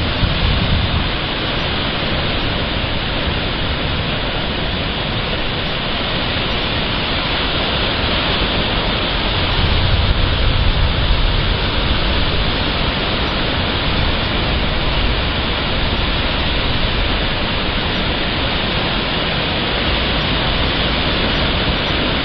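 Heavy rain falling in a storm: a steady, loud hiss, with a low rumble swelling about ten seconds in.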